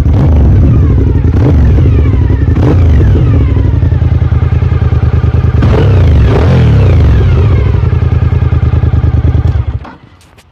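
Suzuki SV1000S 90-degree V-twin running through an aftermarket Devil exhaust, loud, with the throttle blipped several times and the revs falling back after each blip. The engine cuts off suddenly near the end.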